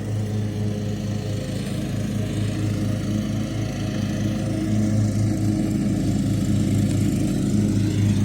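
Lawn mower engine running steadily at working speed, growing slightly louder about halfway through.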